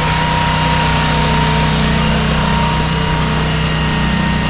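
Cub Cadet garden tractor's engine running loud and steady at high revs under load during a pull.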